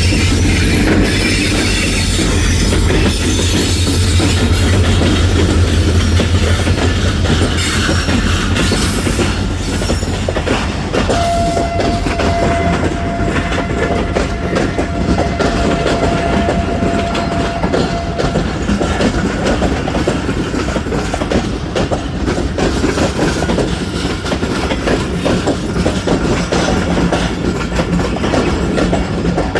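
Pakistan Railways diesel-hauled passenger express passing close by. The locomotive's engine hum is strong at first, then the coaches clatter steadily over the rail joints. A thin, steady wheel squeal runs from about 11 to 18 seconds in.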